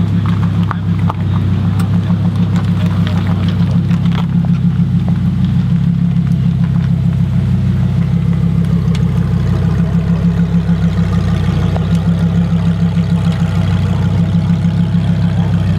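A car engine idling steadily close by, a low, even hum with a fast, regular pulse.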